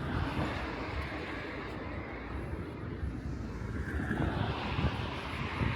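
Outdoor vehicle noise: a low rumble throughout, with a hiss that swells near the start and again about four seconds in, as vehicles pass.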